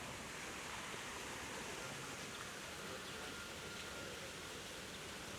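Artificial waterfall running: a steady, even hiss of falling water.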